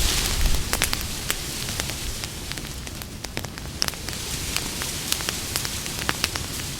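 Campfire burning, wood crackling and popping in irregular sharp snaps over a steady hiss of flame, with a brief louder low rush right at the start.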